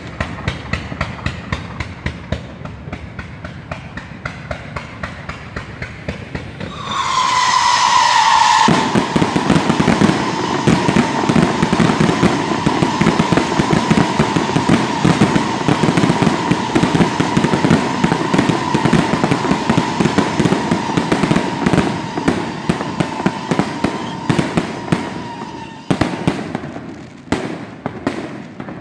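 Fireworks display: at first a rapid crackle of small pops. About seven seconds in, a high whistle starts and holds steady over a louder, dense crackle of bursts and bangs. Near the end the whistle stops and the crackle breaks into separate bangs.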